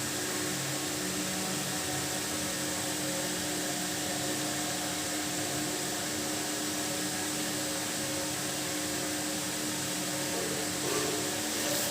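Steady machine-like background noise: an even hiss with a low steady hum, of the kind a running fan or similar appliance makes.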